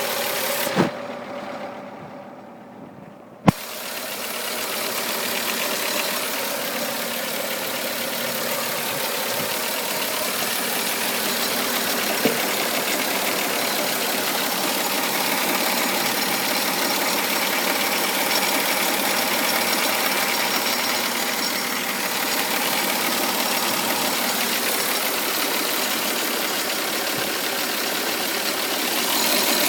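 Mitsubishi FTO engine running at idle in the engine bay, carrying the unexplained weird noise the owner is recording. A sharp click about a second in and a louder knock about three and a half seconds in, after a quieter stretch; then the steady running sound.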